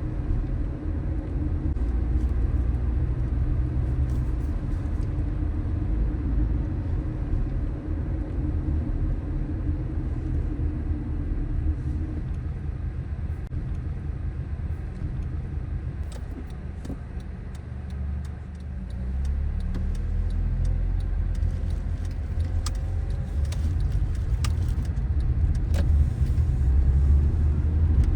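Car driving on city streets, a steady low rumble of engine and road noise that eases briefly past the middle and builds again near the end. Scattered faint ticks in the second half.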